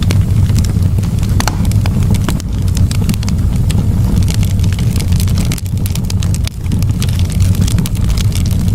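Campfire burning, the wood crackling with many irregular sharp snaps and pops over a steady low rumble.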